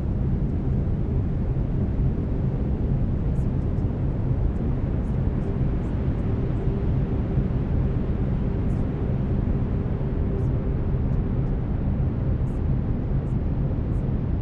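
Steady brown noise, a deep even rumbling hiss, with faint steady low tones of a binaural-beat layer running underneath.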